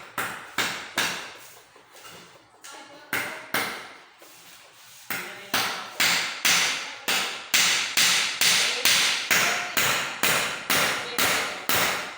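Hammer blows during chair repair: a few strikes, two short pauses, then steady hammering at about two blows a second.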